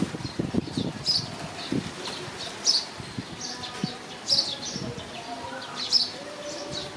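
Short high chirping calls, roughly one a second, over rustling and soft low thuds.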